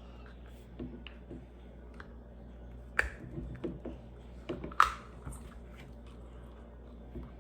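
Plastic Lego pieces being handled and pressed together: scattered light clicks and rattles, with two sharp snaps about two seconds apart near the middle.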